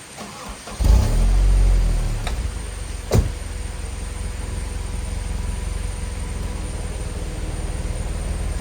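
Car engine being started: a brief crank, then it catches with a loud surge of revs that settles over a couple of seconds into a steady idle. A single sharp knock comes about three seconds in.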